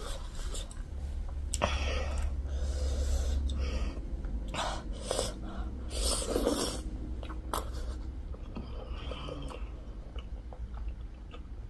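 Close-miked mouth sounds of biting and chewing a juicy pork momo dumpling: irregular wet smacks and clicks, with a low rumble for a few seconds near the start.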